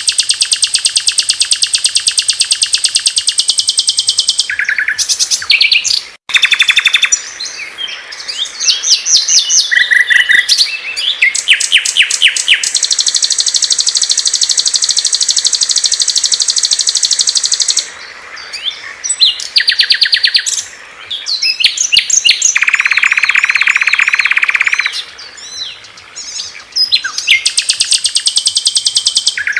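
Recorded songs of several small songbirds spliced one after another, used as masteran tutor song for caged birds. Fast high trills and chirps change abruptly from one song to the next, with one long steady trill near the middle and a lower, buzzier trill later on.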